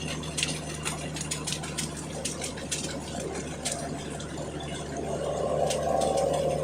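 An engine running steadily with a low, even hum, under scattered clicks and knocks. It grows a little louder near the end.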